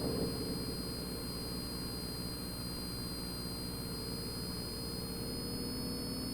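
Cirrus single-engine piston airplane's engine and propeller running steadily at reduced approach power, heard inside the cockpit as a low drone with a thin steady high-pitched whine over it.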